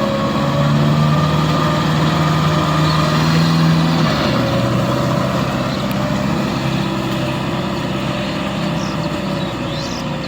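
Tractor diesel engine running steadily, its note dropping slightly about four seconds in.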